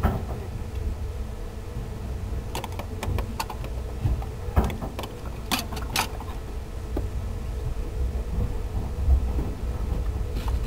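Inside a locomotive-hauled 14-series passenger car rolling slowly through a station: a low running rumble with a faint steady hum, and a run of clicks and knocks from the wheels and couplings a few seconds in.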